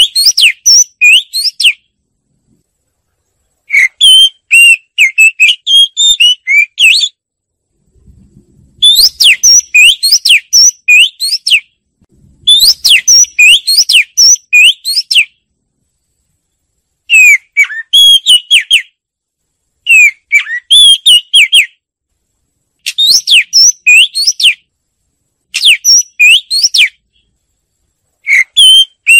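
Oriental magpie-robin singing: loud, rapid phrases of varied whistled notes, in bouts of one to three seconds separated by short pauses.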